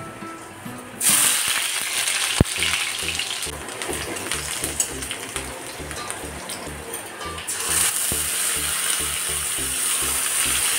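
Ingredients dropped into hot oil in a kadai, sizzling loudly from about a second in, with a fresh burst of sizzling near the end as a spice paste goes into the oil.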